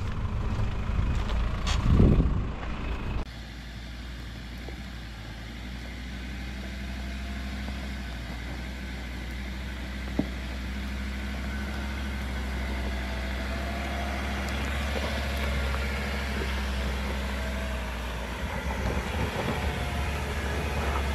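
A 4x4's engine running steadily, a low drone. There is a louder rushing burst about two seconds in and a single sharp click about ten seconds in.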